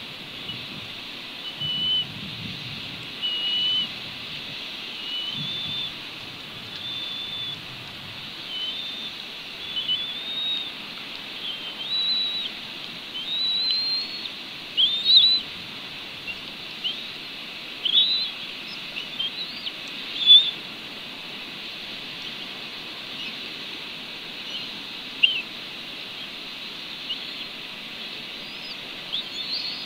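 A bird giving a series of short, high whistled calls one after another over a steady hiss. The early calls are held flat, and the later ones rise or sweep up and then down.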